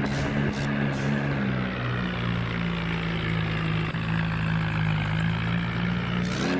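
Tractor's diesel engine running at a steady pitch, shifting pitch briefly near the end.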